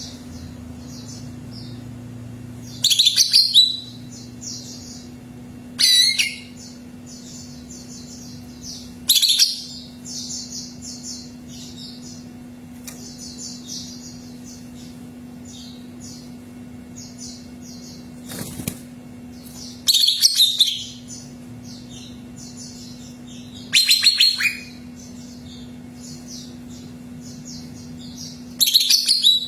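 Green leafbird (cucak ijo) singing: loud, high, sweeping phrases every three to four seconds, with rapid chattering notes in between. A steady low hum runs underneath.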